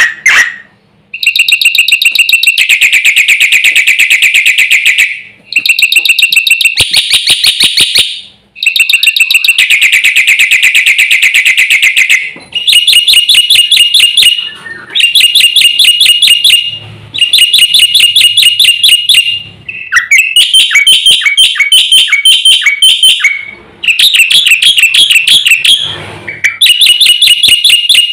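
Black-winged myna (jalak putih) singing loudly and persistently: long bouts of rapid, repeated harsh notes, each bout a few seconds long, broken by short pauses.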